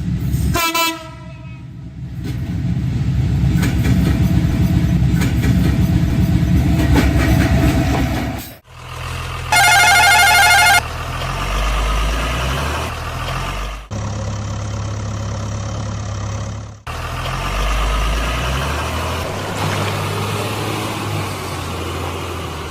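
A string of vehicle sounds, joined at abrupt cuts: a dense low engine-like running sound, then a loud warbling horn toot lasting just over a second, about ten seconds in, then steady low engine hum.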